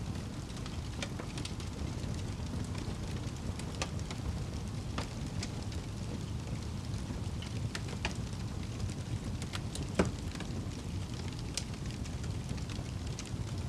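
Wood fire crackling: scattered sharp pops and snaps over a steady low rumble, with one louder pop about ten seconds in.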